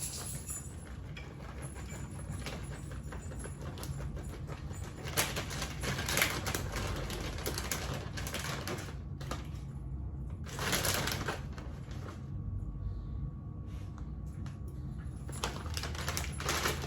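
Light clicking and rustling of hands sprinkling shredded mozzarella over the chicken and handling the cheese, in several short bursts over a low steady hum.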